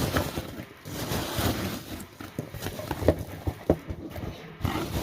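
Hands rummaging through polystyrene packing peanuts in a cardboard box: irregular rustling and light knocks, with two sharper knocks a little after three seconds in.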